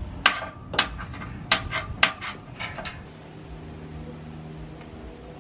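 Metal tools and engine parts clinking, about eight sharp clinks in the first three seconds, while spark plugs are pulled for a compression test. After that a steady low hum starts and carries on.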